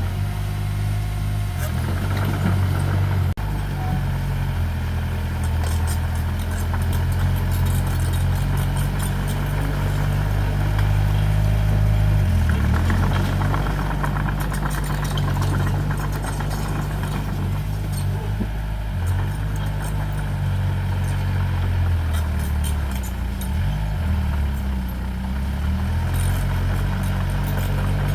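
Diesel engine of heavy earthmoving equipment running continuously, its pitch dipping and recovering a few times as the load changes.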